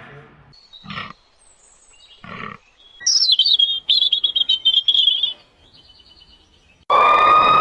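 Two soft knocks, then a rapid run of high chirps lasting about two seconds, like a bird's call. Near the end a loud, steady, siren-like wail starts suddenly.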